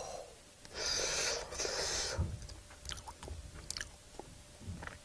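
Two breathy exhalations about a second in, then soft, scattered chewing clicks from a mouthful of rice with salted pollock roe.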